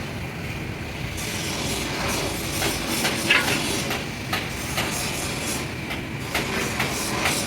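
Steady mechanical rumble with irregular metallic clicks and short scrapes, busier from about a second in.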